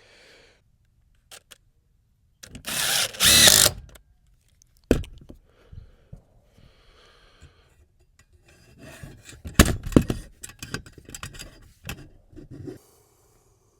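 A power drill runs in one short burst of about a second and a half, followed by a sharp knock and then a run of knocks and rattles of tools and hardware being handled.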